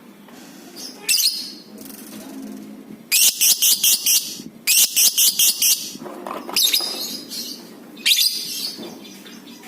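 Lovebird calling: shrill single chirps, and a few seconds in two long runs of rapid repeated shrieks, about five a second, the chattering call that keepers call ngekek.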